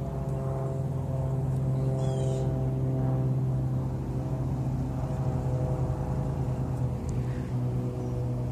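Airplanes passing overhead, their engines a steady low hum with several even tones above it. A short bird call comes about two seconds in.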